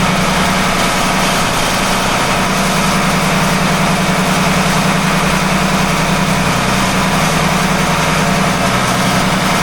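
Volvo marine diesel engine running, with a metal-on-metal grinding from its belt-driven supercharger pulley. It sounds like a bearing failure in the pulley, which the captain traces to the supercharger and its clutch.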